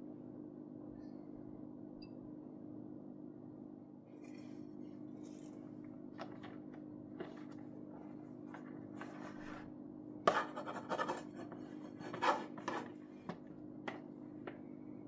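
Kitchen handling noises over a steady low hum: scattered light clicks, taps and scrapes of utensils and dishes, with a louder clatter about ten seconds in and another about two seconds later.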